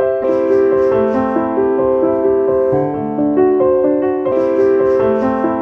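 Background piano music: a gentle melody of single held notes stepping up and down at an even pace.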